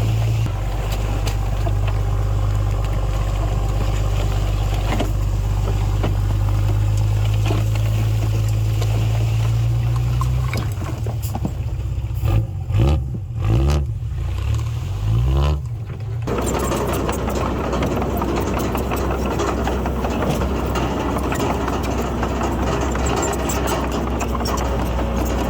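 Heavy construction machinery's diesel engine running steadily. About ten seconds in, its pitch rises and falls several times for some five seconds as it revs under changing load. After that it runs on with a rougher, noisier sound.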